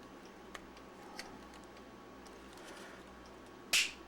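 Putty knife blade working the glued seam of a plastic battery-pack case: faint scattered ticks and scrapes, with one louder sharp click near the end.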